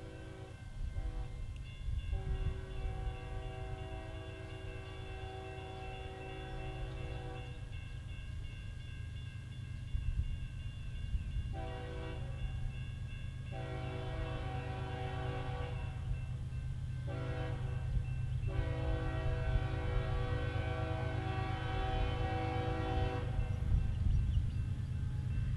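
CSX diesel freight locomotive sounding its air horn in a sequence of long and short blasts, typical of a grade-crossing warning, over the steady low rumble of the train, which grows louder as it approaches.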